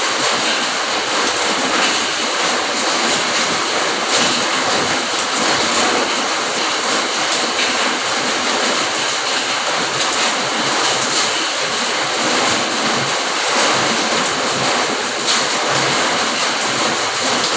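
Steady, heavy rain falling, an even dense hiss of drops, with a few sharper drop hits standing out about four seconds in and near the end.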